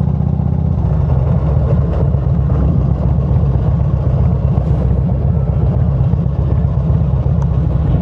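Motorcycle riding along: steady engine and wind rumble, loud and even throughout.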